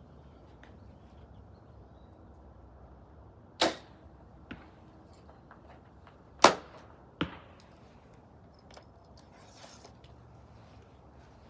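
Two shots from a 40-pound compound bow, about three seconds apart: each a sharp snap at release, followed less than a second later by a weaker thud as the arrow strikes the target.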